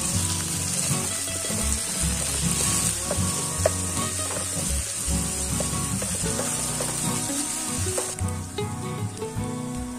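Minced meat, diced potatoes, tomatoes and onions sizzling in oil in a nonstick frying pan, stirred with a wooden spatula that scrapes against the pan now and then. The sizzle dies down near the end.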